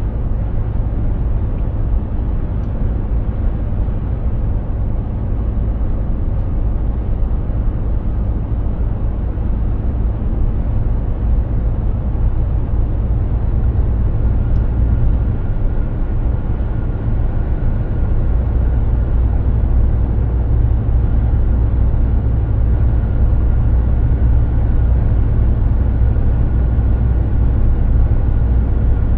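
Mercedes-Benz Actros 2763 heavy truck driving along, its straight-six diesel and the road making a steady low drone that grows a little louder in the second half. A faint high, steady whine comes in about halfway.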